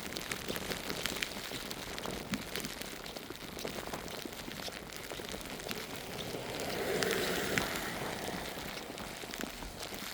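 Footsteps crunching through fresh snow, with a steady patter of falling snow and many small irregular clicks. A broader sound swells and fades about seven seconds in.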